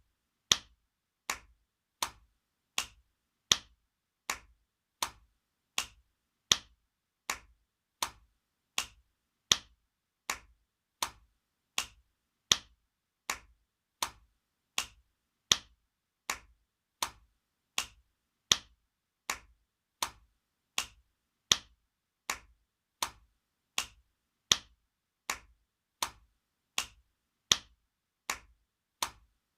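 Spanking sound effect: a hand slapping skin in sharp, evenly spaced smacks, about one and a half a second, some louder than others.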